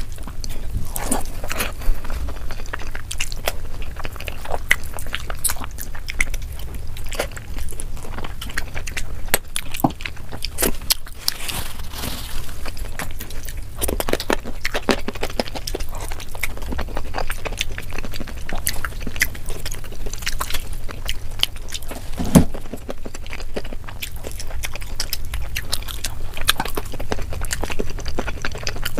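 Close-up eating sounds: wet chewing and mouth smacks while mouthfuls of chicken biryani and rice are eaten by hand, with many quick clicks and crackles. One louder knock about three-quarters of the way through.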